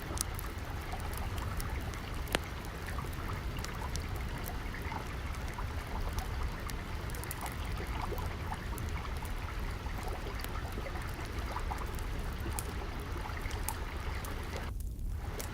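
Steady trickling, flowing water over a low rumble, with scattered sharp crackles from a burning wood fire.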